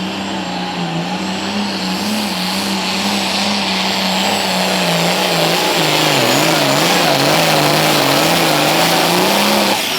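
Competition pulling tractor's engine running flat out under load as it drags the weight sled. Its pitch holds steady at first, then wavers up and down over the second half while it gets louder, and it drops away near the end.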